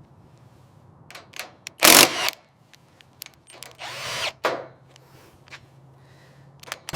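Workshop tool work: scattered clicks and knocks, with a short loud power-tool burst about two seconds in and a second, softer burst around four seconds.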